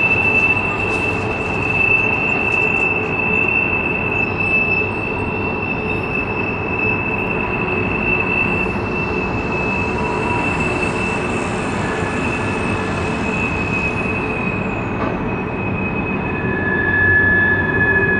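Freight train's hopper cars and boxcars rolling through a curve, their steel wheels squealing against the rail in a steady high note over a constant rumble. A second, lower squeal joins near the end.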